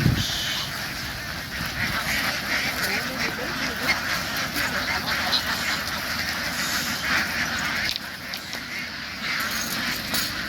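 A large flock of domestic ducks quacking, many calls overlapping without a break. There is a short low thump right at the start.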